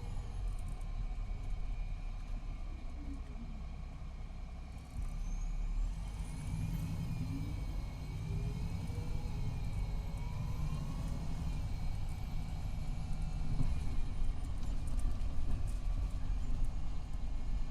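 MCI D4500CT coach's Cummins ISX12 diesel and Allison B500R automatic transmission under way. About five seconds in the load steps up and whines climb in pitch as the bus accelerates. The transmission is in its last stages, according to the uploader.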